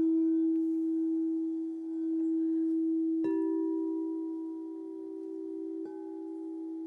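Singing bowls ringing: one low bowl tone is held throughout with a slight wavering, and a bowl is struck twice, about three seconds in and again near six seconds, each strike adding a higher ringing tone that lingers.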